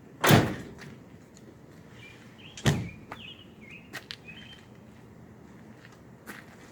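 Camping gear being loaded into a pickup truck: two loud thumps about two and a half seconds apart, then a few lighter knocks. Birds chirp faintly in the background.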